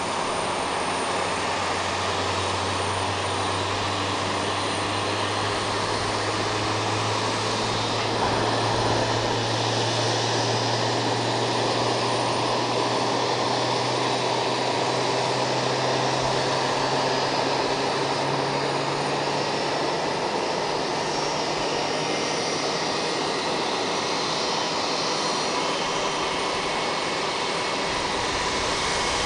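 Airbus A320-232 jet engines running on the ground, a steady rushing jet noise. A low hum under it slowly rises in pitch and fades out about two-thirds of the way through.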